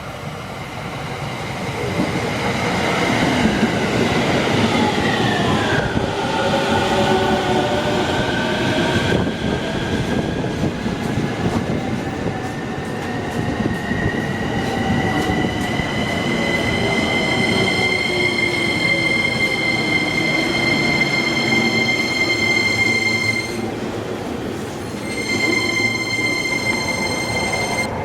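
Electric train running, its motors giving a whine of several tones that falls at first, then climbs slowly in pitch as the train accelerates and levels off. The whine drops out for a moment near the end and comes back, over a steady rumble of the running train.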